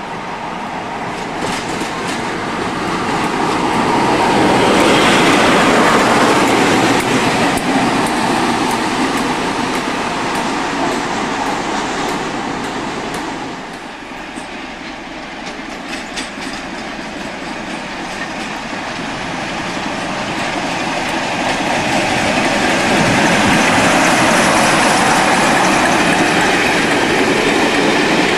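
Train rolling along the rails, its wheels clicking over the rail joints; the rumble swells, eases about halfway through, then swells again.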